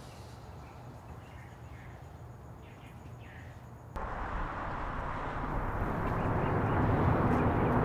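Faint outdoor ambience with a low hum and a few soft bird chirps. About four seconds in it cuts abruptly to a loud, steady rushing noise that grows louder toward the end.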